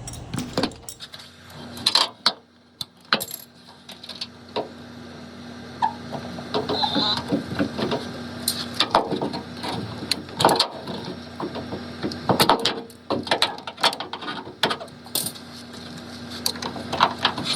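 Irregular clicks, taps and knocks of hands handling plastic and metal parts while a washer drain pump is fitted and its wire connectors are plugged in, over a faint steady hum.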